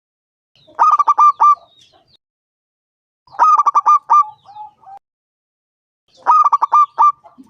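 Zebra dove (perkutut) singing: three bouts of its staccato cooing, each a quick run of about five clipped notes followed by a few softer, lower trailing coos.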